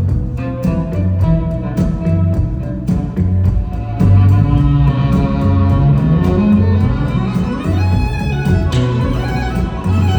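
Live band playing an instrumental passage: bowed violin carrying the melody over bass, guitar and drums with a steady beat.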